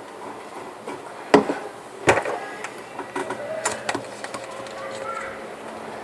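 A few sharp clicks and knocks from objects being handled, the loudest about a second and a half in and another about two seconds in, followed by a run of lighter clicks and ticks.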